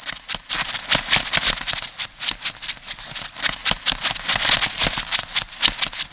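Crab sound effect: a dense, irregular run of sharp clicks and rattles, like claws and legs scuttling over a hard surface.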